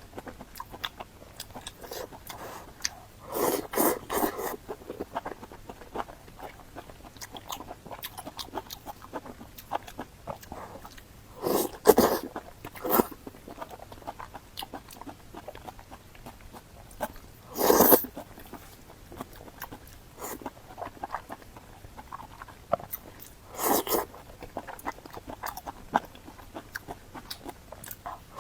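A person eating: steady chewing with small wet mouth clicks, and about five louder short bites or crunches scattered through.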